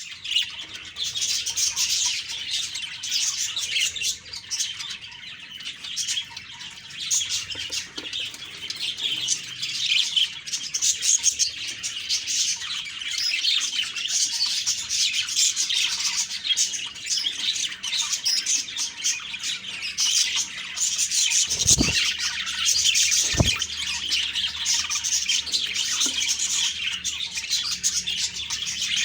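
Budgerigars chirping and warbling in a busy, continuous chatter. Two brief low thumps come about two-thirds of the way through.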